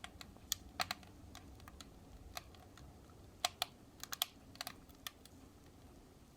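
Wood fire in a fireplace crackling: sharp, irregular pops and snaps, some coming in quick clusters, over a faint low rush of the burning.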